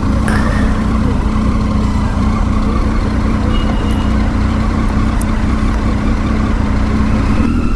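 Motorcycle engine running steadily under a dense, even low rumble.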